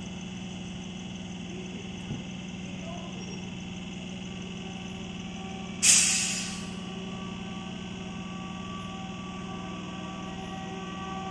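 Standing electric multiple-unit train humming steadily. About six seconds in, a sharp burst of compressed air hisses from its air brake system and fades over about a second.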